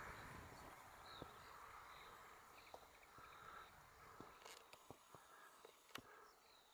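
Near silence: faint outdoor ambience with a few short, faint high chirps and a handful of sharp clicks.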